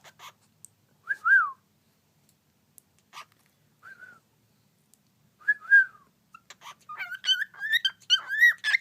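Cockatiels whistling: a few short whistles that rise and fall, spaced well apart, then a quicker run of warbling whistle notes with little clicks near the end.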